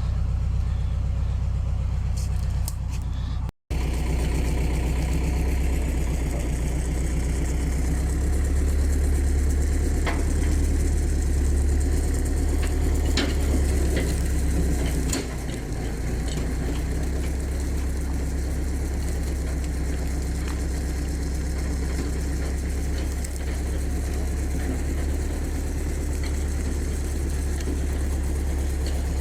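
An engine running steadily with a deep, even hum, cut off for a split second about three and a half seconds in.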